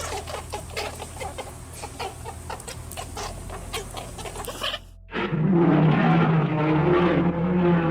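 Chickens clucking in quick short notes. About five seconds in, this cuts abruptly to a loud, low, drawn-out animal call at a steady pitch.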